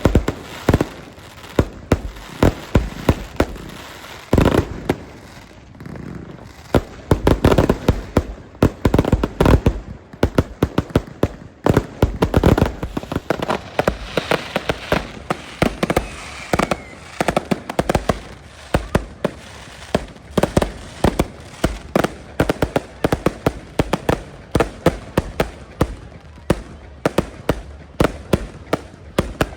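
Fireworks display: a rapid, continuous stream of bangs and crackles from fireworks bursting, several a second, with heavier booms now and then.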